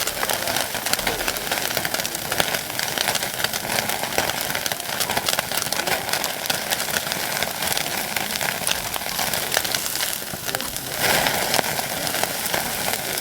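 Wagyu sirloin steak sizzling over a wood campfire: a dense, steady crackle of fat spitting and popping, a little louder for a moment about eleven seconds in.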